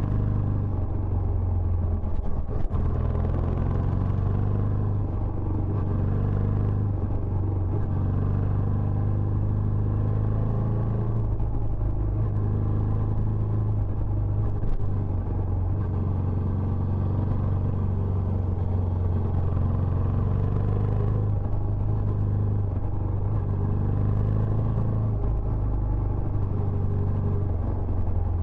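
Benelli Imperiale 400's single-cylinder engine running steadily through its stock exhaust, a constant low rumble with a short knock about two and a half seconds in.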